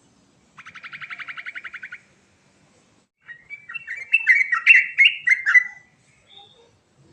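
Trucuk (yellow-vented bulbul) singing. First comes a rapid, even trill of about fourteen notes a second, and about two seconds later a louder run of varied, warbled notes.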